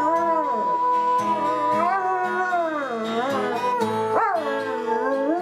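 A dog howling in long, wavering notes along with music, the pitch dipping and then swooping up sharply about four seconds in.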